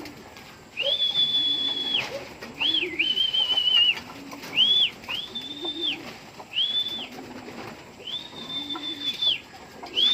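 Domestic pigeons cooing over and over, with a series of about seven high, level whistled notes that each swell in, hold steady and drop away.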